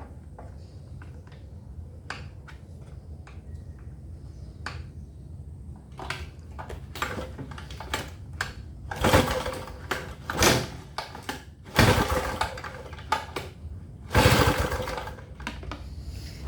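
A gasoline inverter generator's recoil starter being pulled, cranking the engine for a spark test on an engine that won't start. Light clicks and knocks come first, then from about six seconds in a run of quick pulls, with four loud rasping ones spread over the last half.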